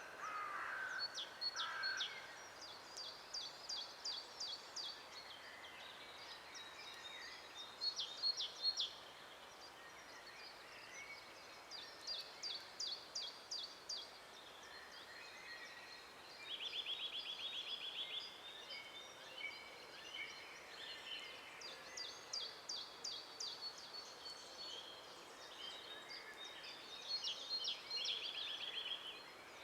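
Several songbirds singing in a forest: short phrases of quick, repeated high notes every few seconds, and twice a fast trill, over a faint steady hiss.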